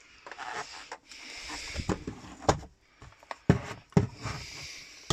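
Handling noise of a Gtech AirRam cordless upright vacuum's plastic body: rustling and scraping broken by several sharp knocks and clicks as parts are moved about and fitted.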